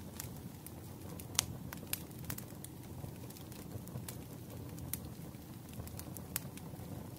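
Wood fire crackling in a fireplace: a steady low rumble of flame with scattered sharp pops and snaps, the loudest about a second and a half in.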